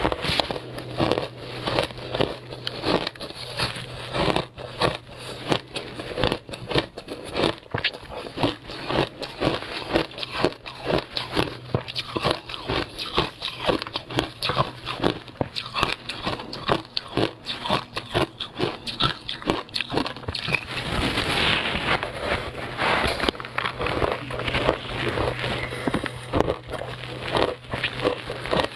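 Frozen passion fruit ice being bitten and chewed: quick, crisp crunches several times a second, thickening into a denser stretch of grinding crunches about three-quarters of the way through.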